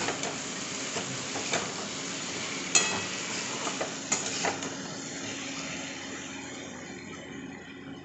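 Chicken gizzards and liver in masala sizzling in a metal wok while a spatula stirs them, scraping and tapping the pan. The loudest sound is a ringing clink of the spatula on the pan about three seconds in, and the sizzle dies down over the second half.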